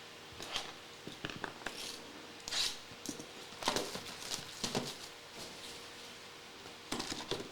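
Trading card packs and cards being handled: scattered short rustles and light taps of foil wrappers and cards, with a louder swish about two and a half seconds in.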